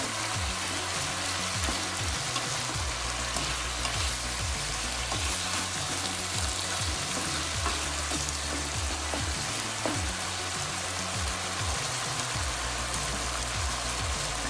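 Pork and chicken adobo with sliced onions frying in a pan, a steady sizzle as it is stirred with a spatula, the sauce cooked down until fairly dry.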